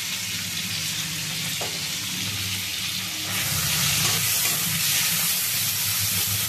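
Tomatoes sizzling in hot oil in a metal kadai, seasoned with salt and turmeric. About three seconds in, the sizzle grows louder as a metal spatula starts stirring and scraping them around the pan.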